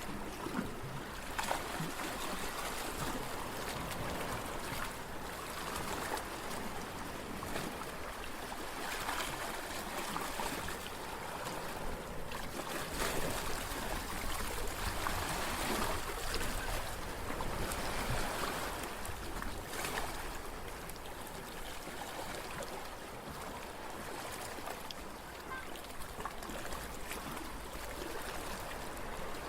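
Water running steadily, swelling a little louder in the middle and easing again.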